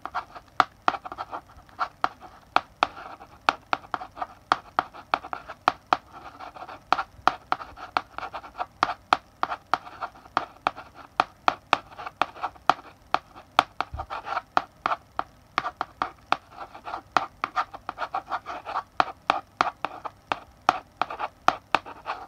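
Chalk writing on a blackboard: quick taps of the chalk tip striking the board, several a second, between short scratchy strokes.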